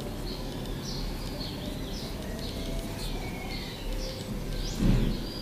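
Birds chirping in the background: short, high chirps scattered through, over a steady low hum, with a brief low sound near the end.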